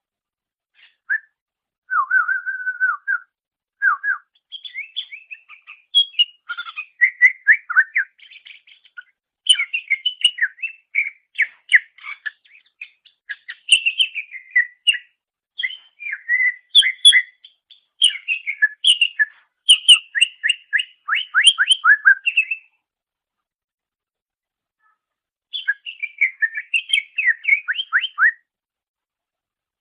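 Cucak ijo (green leafbird) singing a fast, varied song of chattering notes and quick downward-sliding whistles, delivered in run-on phrases with a pause of about three seconds near the end.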